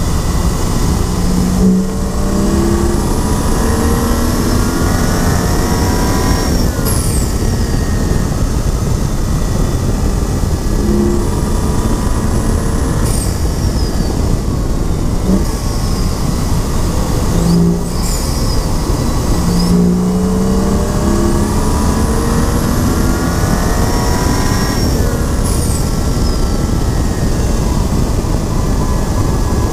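2011 BMW 135i's turbocharged inline-six at full throttle on a race track: the revs climb steadily for several seconds, then drop sharply at each upshift, several times over, under heavy wind and road noise.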